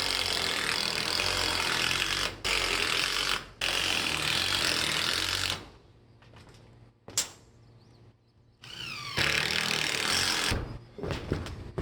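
Power drill driving 3-inch deck screws through a 2x4 and the tin roofing into the decking: three long runs with brief breaks in the first five seconds or so, then a pause with a single click, and another run starting with a rising whine near the end.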